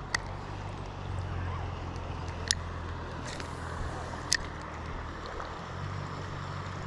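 River water running and swishing around a wader's legs, a steady low rush, with three short sharp clicks about two seconds apart.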